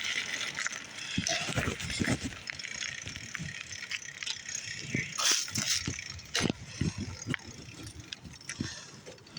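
Bicycle being ridden, its frame and parts rattling with many irregular clicks and knocks over a steady hiss.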